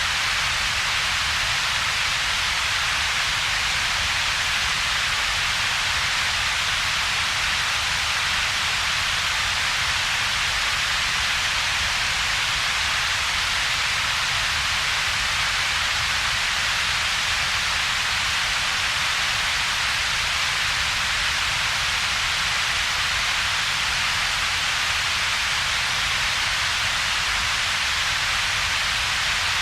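Steady synthetic double-peaked noise: an even hiss centred around 2–3 kHz over a weaker low rumble below about 200 Hz, with a gap in the low mids between them. It does not change.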